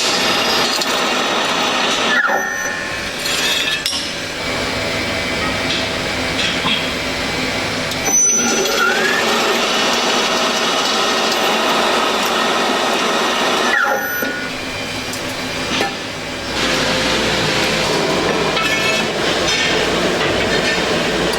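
Metalworking shop noise from power tools and handling of metal, with occasional clinks; the sound changes abruptly every few seconds as the shot changes.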